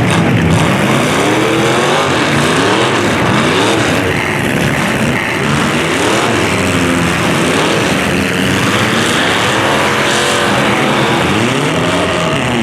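Several demolition derby cars' engines revving, their overlapping pitches rising and falling again and again.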